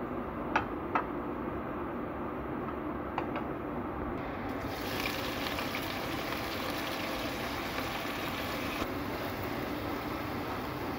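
Wood ear mushrooms and ginger sizzling in hot oil in a stainless wok, the sizzle starting about four seconds in and easing off a little near the end, over a steady low hum. Two sharp clicks about half a second apart come about half a second in.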